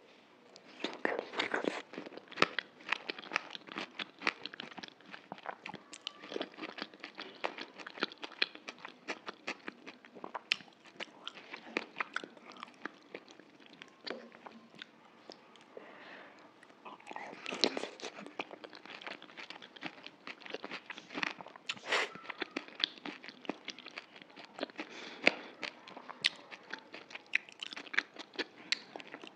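Close-miked crunching and chewing of dahi puri: crisp puri shells breaking under the teeth with yogurt, a dense run of sharp crackles. Louder bites come about a second in and again a little past the halfway mark.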